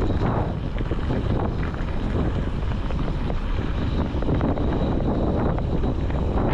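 Steady wind buffeting the microphone over the low rumble of a vehicle on the move.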